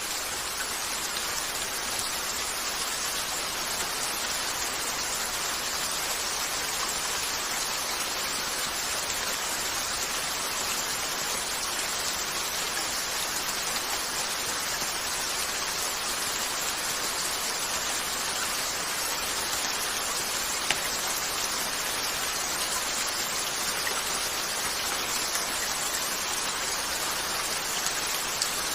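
Steady rain hiss, with a couple of sharp pops from a log fire, one about two-thirds of the way in and one near the end.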